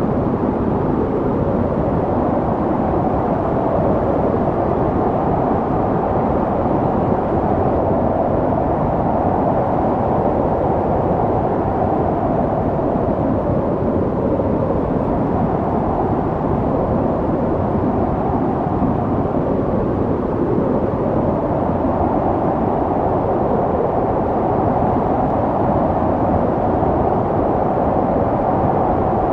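Snowstorm wind blowing steadily with a deep rush, swelling and easing in slow gusts every several seconds.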